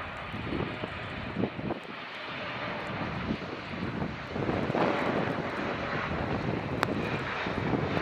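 Jet airliner engines: a steady rushing noise that grows louder about halfway through as the aircraft comes closer. Wind buffets the microphone, and there are a few sharp clicks near the end.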